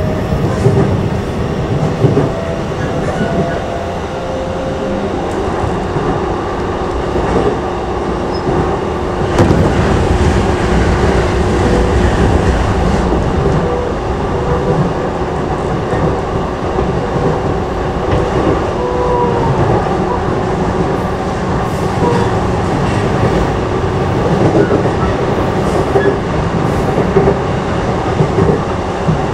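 Running noise inside a JR East E233-5000 series electric commuter train moving between stations: a steady rumble of wheels on rail, with a faint steady tone and a few faint gliding whines over it.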